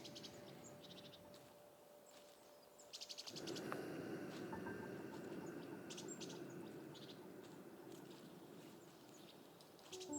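Small songbirds chirping in short, rapid trills over soft forest ambience. About three seconds in, a soft hushing sound swells and then slowly fades.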